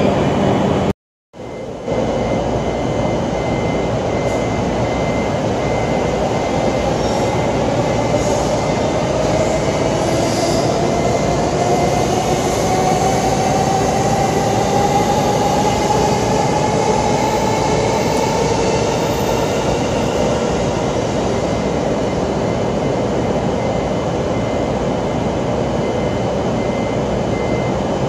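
Electric commuter train running on the tracks with a steady rumble, its motors giving a whine that rises slowly in pitch as it gathers speed and then holds. The sound drops out briefly about a second in.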